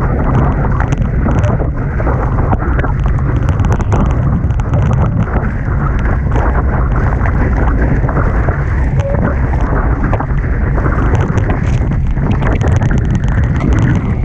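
Heavy wind buffeting the microphone over rushing water and spray as a Hobie Tiger catamaran sails at speed in strong wind, with frequent short crackles throughout.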